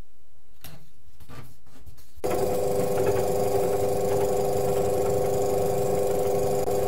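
A small electric motor, likely a handheld power tool, runs steadily with a constant hum. It starts abruptly about two seconds in and cuts off near the end.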